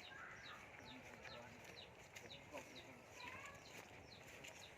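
Faint birdsong: a short, high, falling chirp repeated about twice a second, with a few softer calls lower down.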